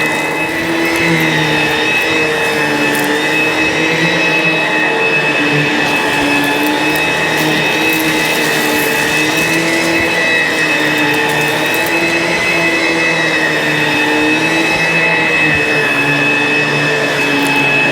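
ProTeam ProForce 1500XP upright vacuum running steadily, its motor whine drifting slightly up and down in pitch every few seconds, with faint scattered ticks.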